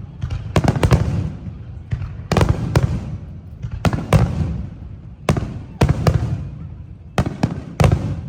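Fireworks exploding overhead in quick succession: sharp bangs in clusters of two or three, about every second and a half, each followed by a rolling rumble.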